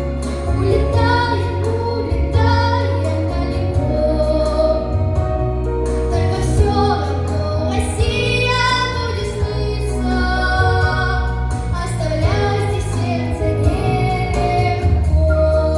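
A young girl singing a song over a backing track with a steady bass line.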